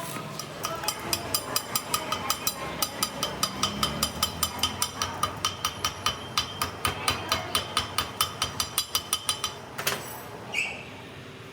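Metal being struck repeatedly, fast and evenly at about five ringing blows a second. The blows stop about nine and a half seconds in, followed by one more knock.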